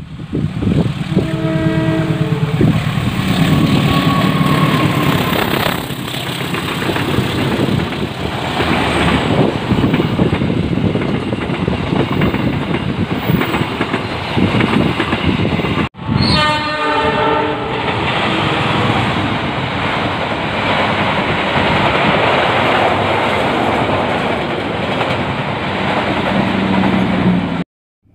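A CC 201 diesel-electric locomotive sounds its multi-tone horn about a second in as it approaches, then the passenger coaches pass close at speed with a loud, steady rush of wheels on rail. About halfway the sound cuts, a train horn sounds again, and another train runs past.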